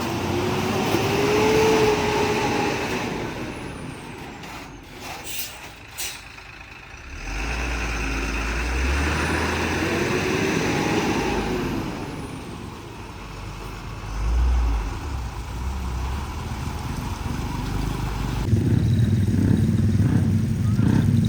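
Heavy truck engines running and passing, with a few sharp clicks a few seconds in and a louder low engine rumble starting near the end.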